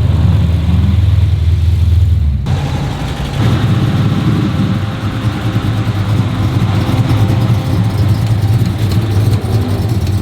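Car engine running with a deep, steady rumble, switching abruptly about two and a half seconds in to a rougher engine sound that carries on.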